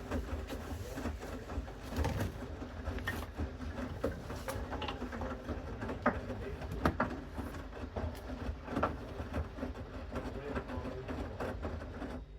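Bosch Series 6 front-loading washing machine in its main wash: a steady motor hum as the drum turns the load, with irregular soft knocks and clicks of laundry tumbling.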